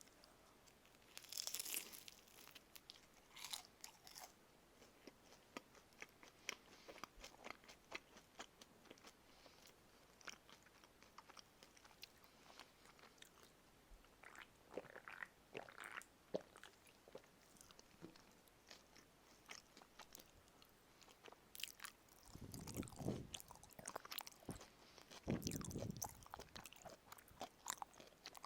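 Crunchy bites and close-up chewing of crisp-coated karaage (Japanese fried chicken), with scattered crackles of the crust and two louder chewing bursts near the end.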